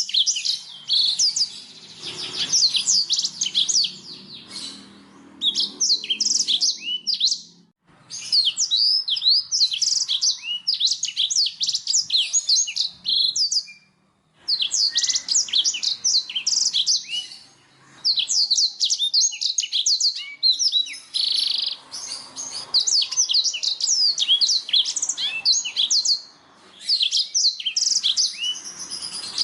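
Black-throated canary (blackthroat) singing: long, rapid phrases of high, quick chirps and trills, broken by several short pauses.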